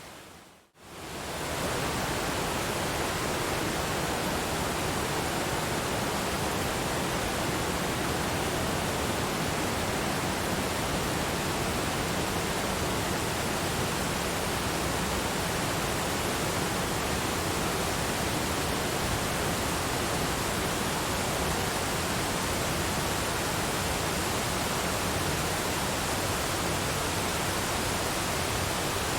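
Waterfall rushing steadily, an even wash of falling water. Just under a second in, the sound fades out to near silence and comes straight back to full level, as at the join of a looped recording.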